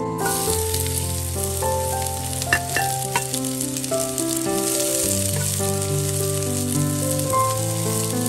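Sliced shallots sizzling in hot oil in a frying pan, starting right as they hit the oil, while a metal spatula stirs them with a few light taps against the pan near the third second. Soft piano music plays underneath.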